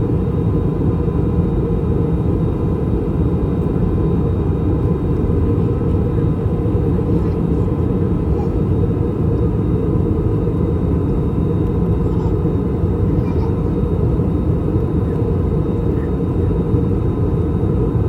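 Cabin noise of an Airbus A321 airliner in flight during descent: a steady, loud, low rumble of airflow and its IAE V2533 turbofan engines, heard from a seat inside the cabin, with no change in pitch or level.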